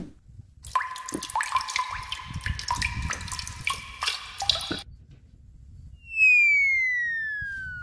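Water trickling and splashing with small clinks, then a whistle-like tone gliding steadily down in pitch for about two seconds.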